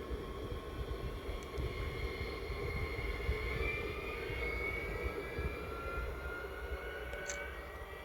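Train running past with a steady rumble and a whine that slowly falls in pitch, growing fainter near the end as it draws away.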